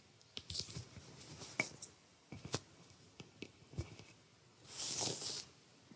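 Scattered small clicks and taps of handling, with one longer rustle about five seconds in.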